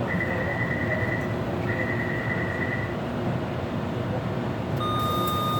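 Taipei Metro C341 train running, heard inside the car: a steady rumble of the train in motion with a high even whine that drops out and returns a couple of times. Near the end a chime of steady tones begins.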